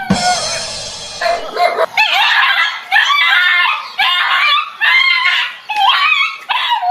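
A dog barking and yelping over and over, a long high cry first, then about one bark a second.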